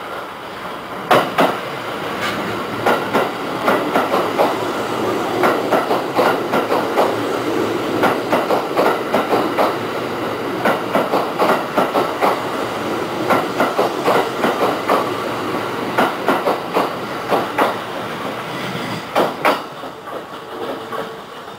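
Kintetsu 50000-series Shimakaze limited express passing fast along the platform. Its wheels clack over the rail joints in a quick, uneven run of clicks over a steady rolling rumble. Near the end the clacking thins out and drops away.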